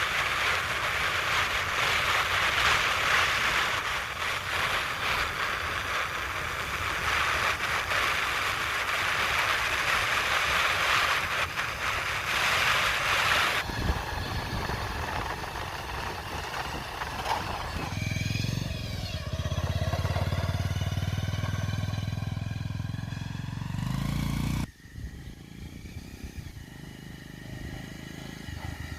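Steady noisy hiss for roughly the first half, then an engine running, its pitch rising and falling, cutting off abruptly near the end.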